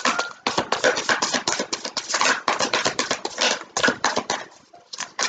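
Tarot cards being shuffled and handled: a quick, irregular run of papery flicks and taps, thinning out near the end.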